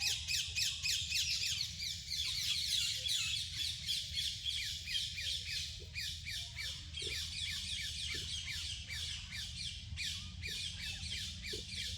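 A dense chorus of short, high-pitched chirping calls, several a second, each sweeping downward, over a steady low rumble.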